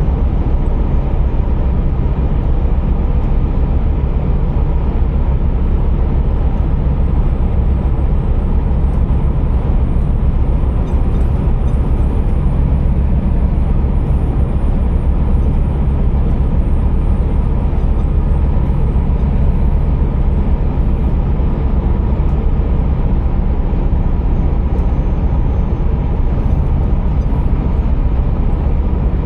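Scania R480 heavy truck running: a steady, loud low rumble with a continuous noisy haze above it, and a faint high whine that slowly rises and then falls back.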